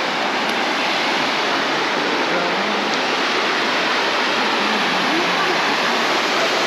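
Water pouring over a dam: a steady, even rush.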